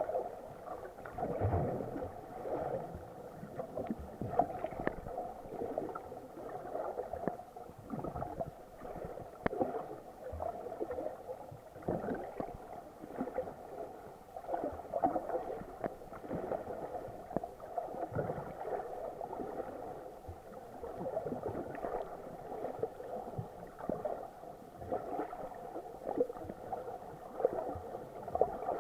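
Muffled water sloshing and gurgling heard through an action camera's waterproof housing while snorkeling, with a few faint clicks.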